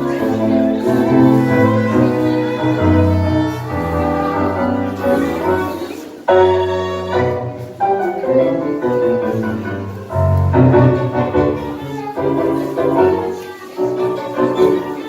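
Live tango music played by a small ensemble with violin, piano and low bowed strings, marked by strong accented chords about 6 and 10 seconds in.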